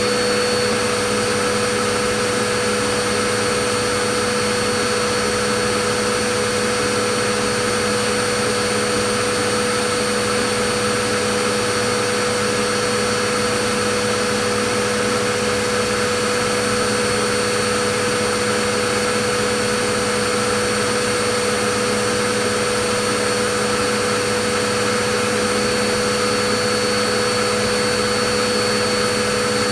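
Vacuum cleaner running continuously: a steady rush of air with a constant motor whine, with no change in pitch or level.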